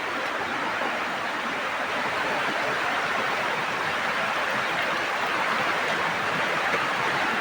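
Fast river water rushing, a steady even roar of water that holds level throughout.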